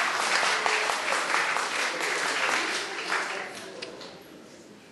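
Audience applauding, fading away about three and a half seconds in.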